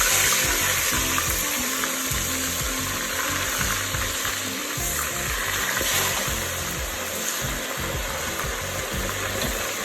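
Chicken pieces deep-frying in hot oil, with a steady, dense sizzle.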